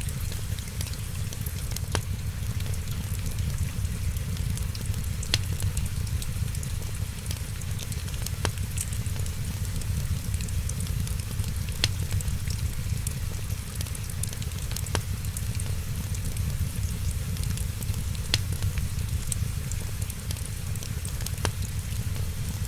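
Wood fire crackling, with scattered sharp pops about once a second over a steady low rumble and a soft hiss.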